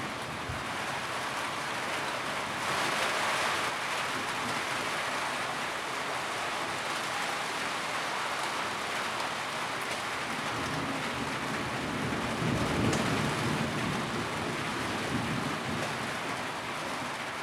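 Steady rain on a tin roof, a dense even patter that swells louder about three seconds in and grows deeper and heavier around twelve seconds in.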